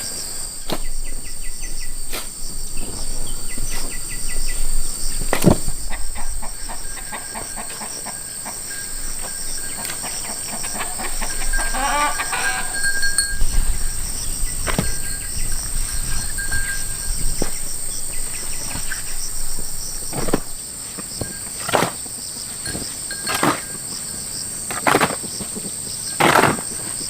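Steady high chirring of insects, with sharp knocks scattered through it, coming every one to two seconds in the second half. A rooster crows about twelve seconds in.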